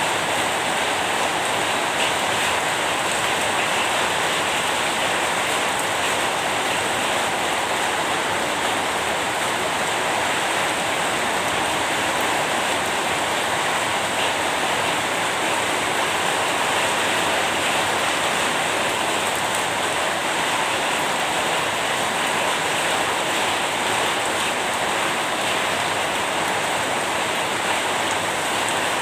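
Steady, even rain falling, with no let-up or change.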